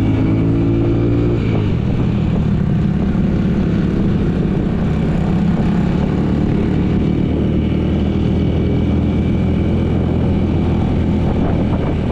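Motorcycle engine running steadily while being ridden, heard from the rider's own bike. Its note changes about a second and a half in, then holds steady.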